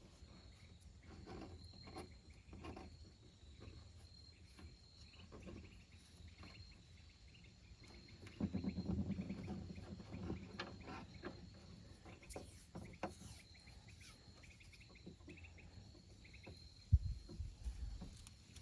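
Faint steady chirping of crickets, with scattered small clicks and rustles of hands working on a hose and a single sharp knock near the end.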